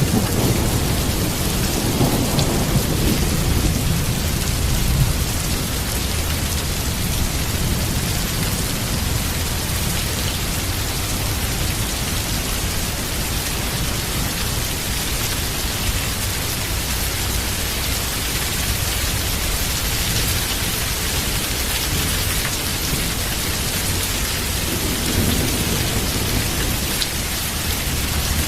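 Heavy rain falling steadily, with a low rumble of thunder in the first few seconds that dies away, and a shorter, fainter rumble near the end.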